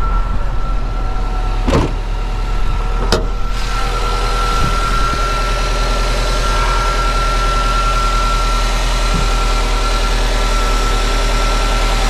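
Car engine idling steadily, with a thin steady whine over the low hum. Two sharp knocks come about two and three seconds in.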